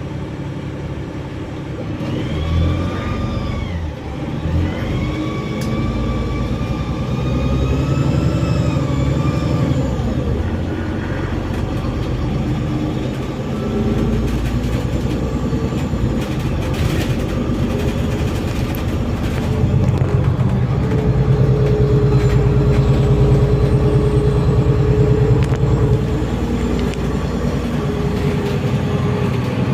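Inside a Hong Kong KMB bus (TK147) under way: a steady low engine drone, with a drivetrain whine that rises and falls in pitch several times in the first ten seconds as the bus pulls away and slows, and a steady hum later on.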